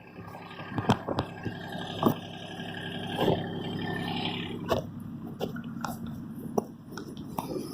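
Kubota diesel tractor engine idling steadily, with scattered sharp clicks and knocks over it.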